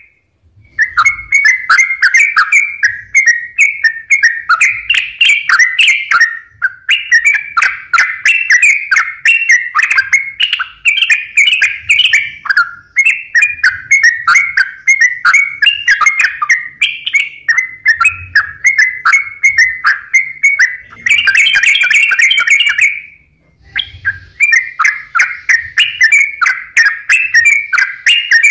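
Yellow-vented bulbul (trucukan) singing loudly in a fast, continuous run of bubbling, chattering phrases, with brief pauses near the start and about three-quarters of the way through.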